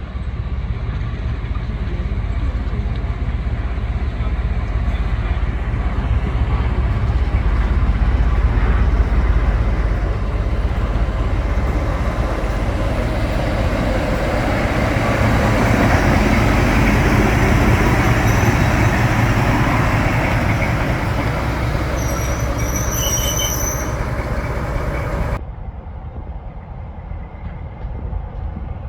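Diesel-hauled train running by, its low engine rumble and wheel noise building to a peak about halfway. A brief high-pitched squeal comes near the end, and then the sound drops suddenly.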